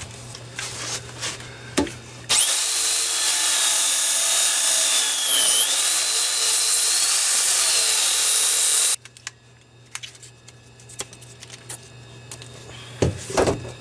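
Makita belt file sander running with a steady high whine for about seven seconds, its pitch dipping briefly midway, then cut off suddenly; its sanding belt is nearly worn through. Light clicks and handling noises before and after.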